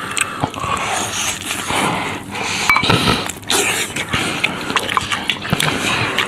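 Close, loud open-mouthed chewing and smacking, with many short wet clicks, as a braised beef rib is bitten and gnawed, meat and cartilage torn off the bone.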